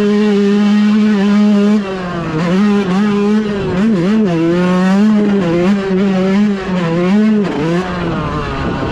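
Dirt bike engine running hard on a motocross track, its pitch holding steady, then dropping and climbing again several times as the throttle is rolled off and opened back up.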